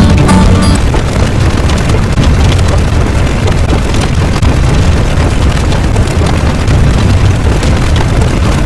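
A loud, steady rumbling noise, heaviest in the low end, with no clear rhythm or pitch.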